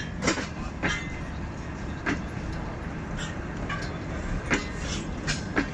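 Passenger coaches of the 7 Up Tezgam Express rolling past on the adjacent track: a steady low rumble of wheels on rail, broken by several sharp, unevenly spaced clacks as wheels cross rail joints.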